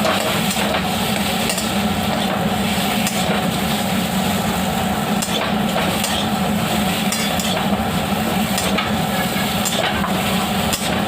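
A spatula stirring a spiced mixture frying in a pan, with a steady sizzle and scattered scrapes and taps of the spatula against the pan.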